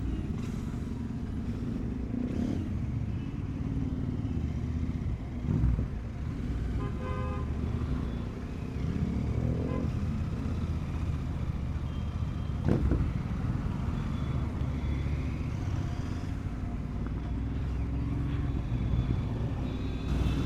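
Motorcycle engine running steadily in city traffic, with a vehicle horn giving a few short beeps about seven seconds in.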